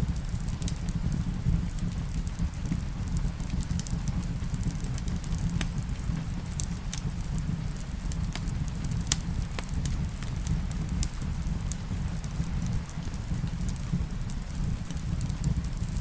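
Wood fire crackling in a fireplace, with scattered sharp pops over a steady low rumble, mixed with steady rain.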